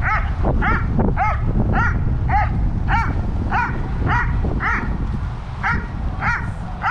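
Dobermann barking repeatedly and steadily, about two barks a second, with wind rumbling on the microphone underneath.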